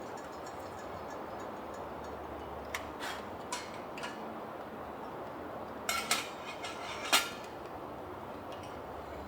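Camp dishes and utensils being handled: scattered light clinks and taps, the loudest about seven seconds in, over a faint steady hiss.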